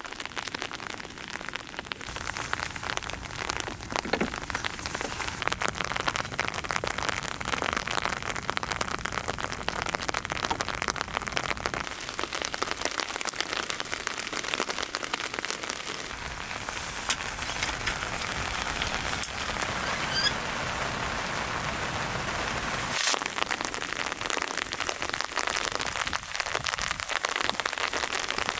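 Heavy rain falling steadily, a dense patter of drops on surfaces, with a few louder single drops standing out in the second half.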